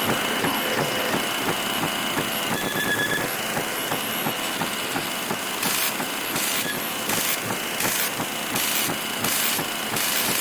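Harsh television static: a dense crackling hiss, with a higher hiss pulsing on and off about twice a second from about six seconds in.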